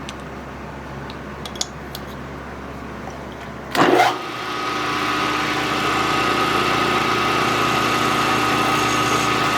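A machine-shop electric motor starts with a loud surge about four seconds in, then runs steadily with a whine. Before it there is only faint shop noise and a few light clicks.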